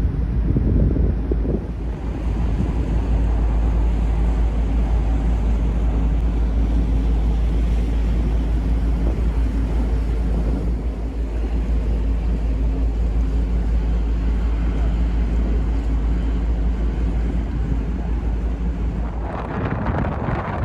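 Steady low rumble of a large car ferry's engines as it moves off from its berth, with wind buffeting the microphone. Near the end a louder rush of wind noise comes in over the rumble.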